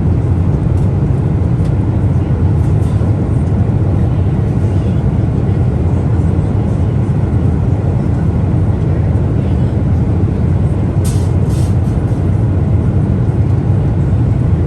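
Steady low cabin noise of a Boeing 777-300ER in flight, the even rush of engines and airflow heard inside the economy cabin. A few faint, short clicks come through about eleven seconds in.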